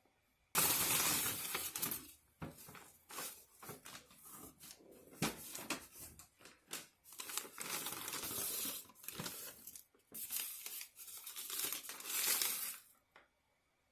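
Takeout food packaging being handled and opened: irregular crinkling and tearing. It starts about half a second in and stops shortly before the end.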